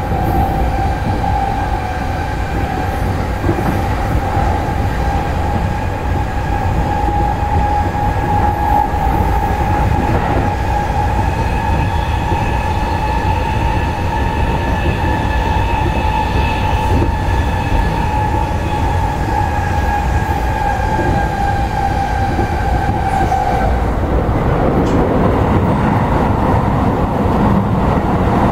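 Inside an E217-series electric commuter train running on the line: a constant low rumble of wheels on track. Over it runs a steady whine that sags slightly in pitch and stops about 24 seconds in, after which the running noise turns rougher.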